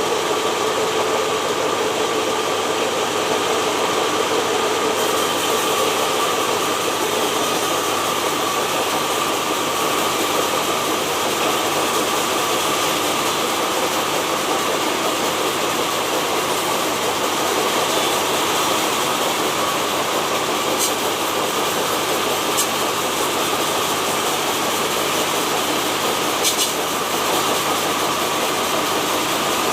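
Sawmill saw running steadily with a constant whine, its pitch changing slightly a few seconds in; a few sharp ticks near the end.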